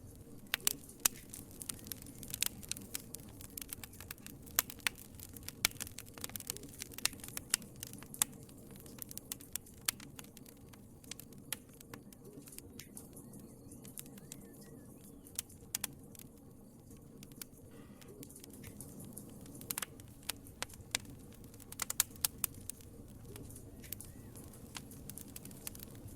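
Wood fire in a fireplace crackling: irregular sharp pops and snaps over a soft, steady hiss of burning, thinning out in the middle and picking up again near the end.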